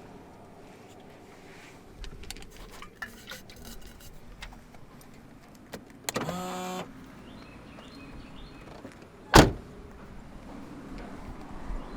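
Small handling sounds in a car: scattered clicks, a short steady buzz about six seconds in, and a loud sharp thump about nine and a half seconds in.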